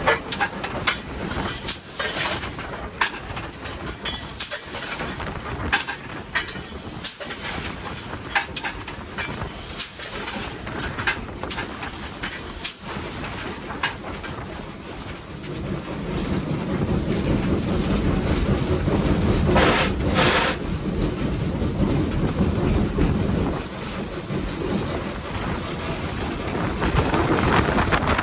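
Steam locomotive heard from inside its cab: steady steam hiss with frequent sharp metallic clanks and knocks, then about halfway through a louder, steady rushing noise as the engine works harder.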